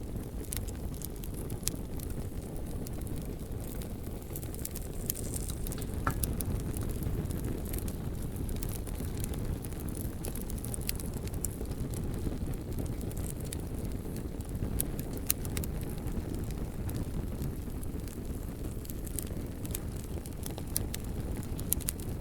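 Bonfire burning: a steady low rumble of the flames with scattered sharp crackles and pops of burning wood at irregular moments.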